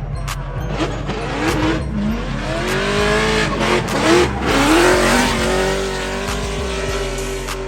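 Drift car engine revving up and down with tyre squeal as the car slides, loudest around the middle, over background music with a steady bass line.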